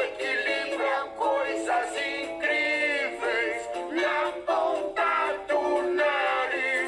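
Children's song: a voice singing a melody over light musical accompaniment, with little bass.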